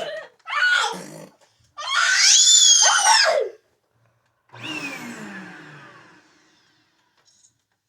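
Vacuum cleaner motor switched on and off in three short bursts, its whine rising as it spins up and falling as it winds down. The last burst, about halfway through, dies away over a couple of seconds as the motor coasts to a stop.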